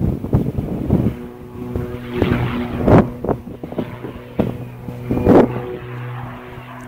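An engine running at a steady pitch, setting in about a second in, with repeated gusts of wind buffeting the microphone.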